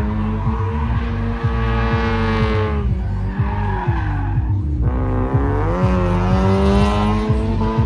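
Drift car running at high revs with its tyres squealing in a slide. The engine note falls off about three seconds in, then climbs back up as the revs build again.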